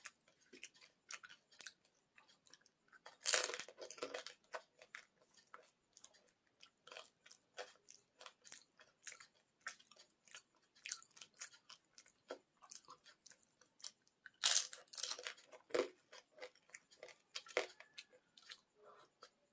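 Close-up chewing of panipuri, a steady run of small wet mouth clicks, with two louder crunches, about three seconds in and again near fifteen seconds, as the crisp puri shells are bitten and broken.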